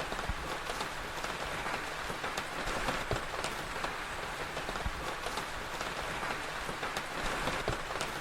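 Steady rain with sharp pops and crackles scattered at irregular times, as from a crackling fire.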